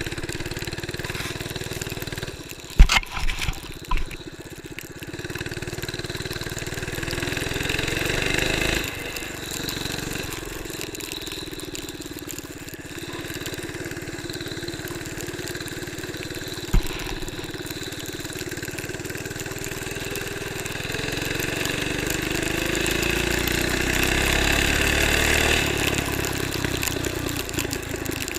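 A vehicle engine running and pulling, speeding up twice and easing off between. A few sharp knocks come about three seconds in.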